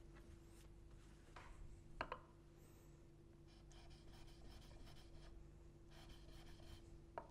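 Chisel blade being rubbed back and forth on a 3000-grit sharpening stone, faint scraping strokes mostly in the second half, with a couple of light knocks about a second and two seconds in.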